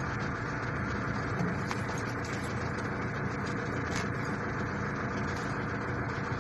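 A steady engine drone, like a vehicle engine idling, with a few faint light clicks.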